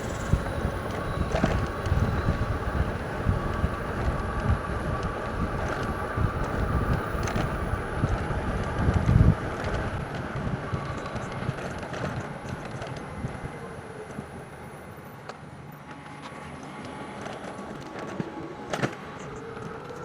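Riding noise of an electric bike: wind rumbling on the microphone and tyre noise on the path. The rumble drops off sharply about nine seconds in as the bike slows.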